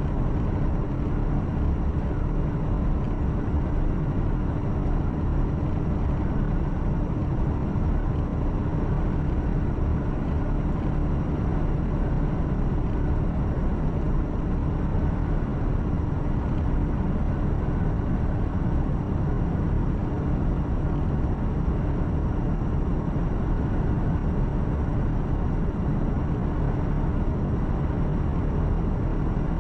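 Truck cab interior while driving: steady engine drone with tyre and road rumble and a steady low hum, unchanging throughout.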